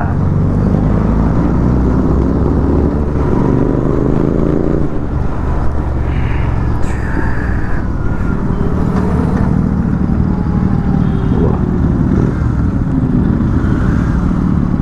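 Motorcycle engine running while riding, with heavy wind and road noise. Its pitch climbs as it accelerates a couple of seconds in, then settles.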